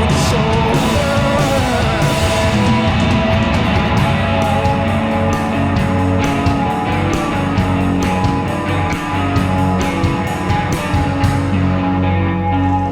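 Live rock band playing an instrumental stretch on electric guitar, bass and drums. Near the end the drums stop, leaving sustained guitar chords ringing.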